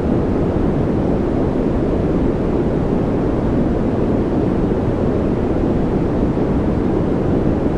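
Continuous white-noise track: an even, unchanging rush of noise weighted toward the low end, a deep steady hiss like brown noise.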